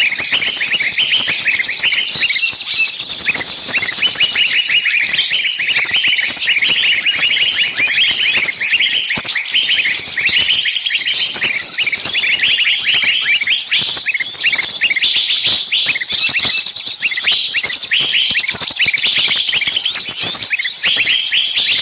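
A dense, unbroken chorus of many small songbirds chirping and trilling rapidly at a high pitch, a bird-trapping lure of noisy, screeching calls like birds caught and in distress.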